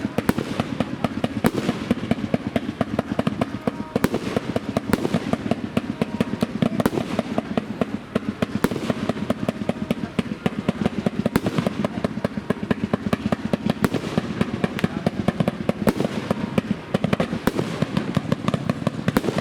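Fireworks display: a dense, unbroken stream of rapid bangs and crackles, with louder bangs standing out every few seconds.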